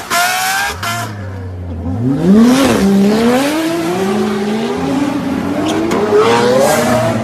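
A sports car engine settles briefly at a low steady note, then accelerates hard from about two seconds in. Its pitch climbs, dips once at a gear change, then rises again through the next gears.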